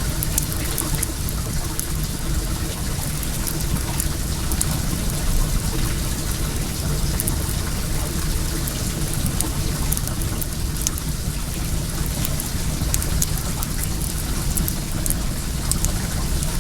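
Well water pouring and trickling in a steady stream, with a wood fire crackling in scattered sharp ticks over it.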